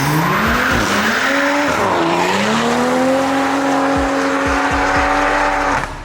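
A car drifting: its engine revs high, dips briefly about two seconds in, then holds steady high revs while the tyres squeal, and the sound drops away just before the end.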